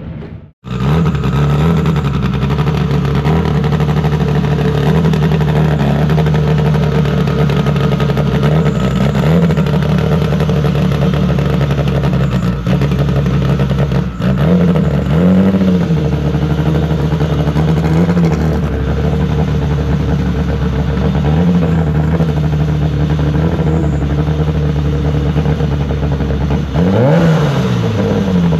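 Twin-turbo 5.0 Coyote V8 Mustang engine running at a steady speed, with several short throttle blips. Near the end the revs rise sharply.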